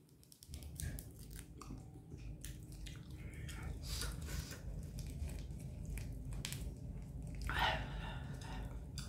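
Close-miked chewing of a rice-batter hot dog: soft wet mouth sounds with small crunches and clicks, and a short breath about three-quarters of the way through.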